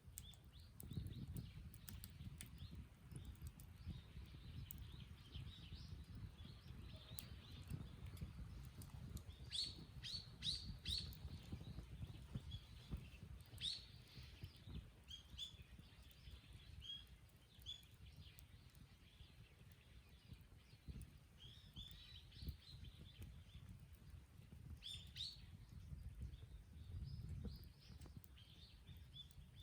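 Wild birds chirping and calling on and off, short high chirps coming in little clusters, heard faintly over a low rumble.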